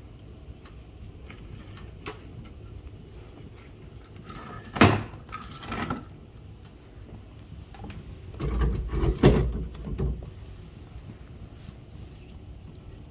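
Wood fire crackling in a fireplace, with small scattered pops. About five seconds in there is a sharp clatter, and a longer run of knocks and deep thuds follows a few seconds later.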